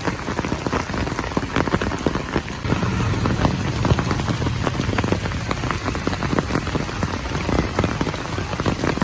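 Steady rain falling, with a dense stream of close individual drops striking hard surfaces.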